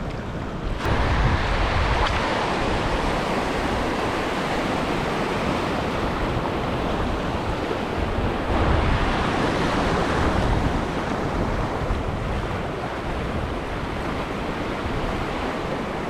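Surf washing over a shallow reef, with wind on the microphone. The wash surges louder about a second in and again about halfway through.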